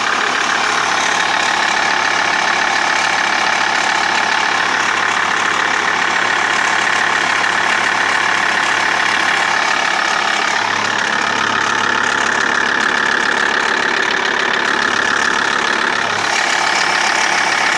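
TDI turbo-diesel engine running steadily with a persistent ticking, clicking noise. A new crankshaft pulley and tensioner have not cured the tick, and the owner doubts it comes from the timing belt.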